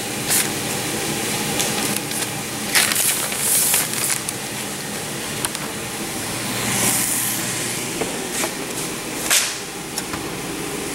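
Vegetables frying in a pan on the stove, a steady sizzle, with a few sharp clicks and short rustling bursts of kitchen handling.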